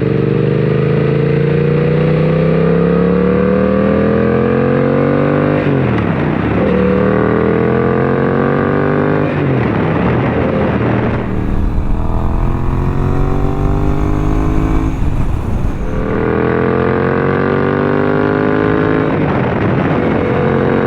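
2024 Suzuki GSX-8S parallel-twin running through a full M4 exhaust, pulling hard through the gears with manual shifts: the pitch climbs, then drops sharply at each upshift, about five and a half and nine seconds in. A rougher, noisier stretch with no clear climb follows, then two more rising pulls with another shift near the end.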